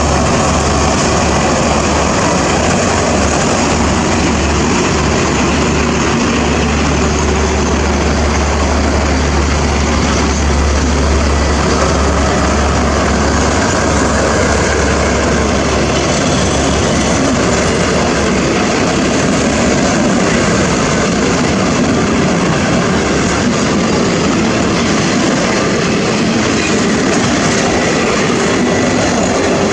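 Train passing close by, loud and steady. A low engine drone is strongest in the first half and fades about two-thirds of the way in, leaving the rolling noise of the cars on the rails.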